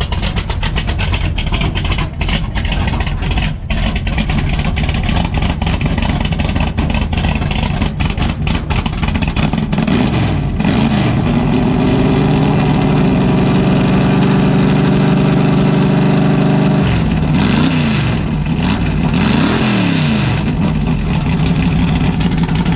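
Loud car engine running at a rough, uneven idle, then revved up about ten seconds in and held at high revs for several seconds. It drops back and is blipped twice, up and down, near the end.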